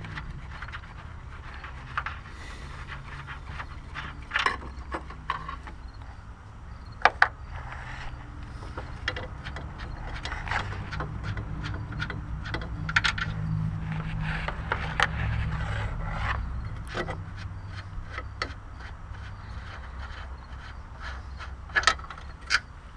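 Hand tools working on a car during engine removal: scattered sharp metal clicks and knocks with some scraping, over a steady low hum.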